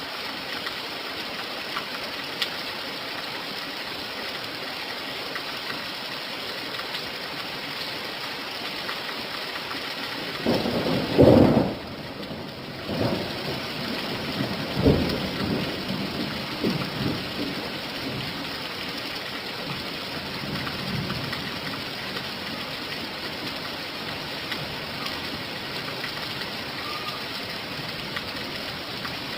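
Steady rain, with a loud rumble of thunder about ten seconds in that rolls on in weaker rumbles over the next several seconds before dying away.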